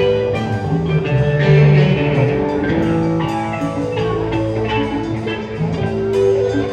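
Live rock band playing: electric guitar and bass over a drum kit with a steady beat.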